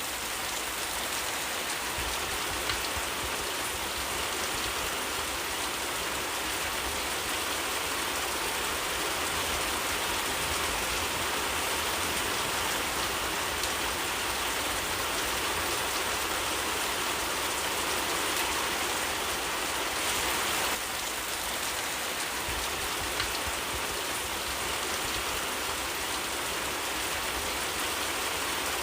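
Steady rain falling in a forest, a dense even hiss with the odd single drop ticking out of it.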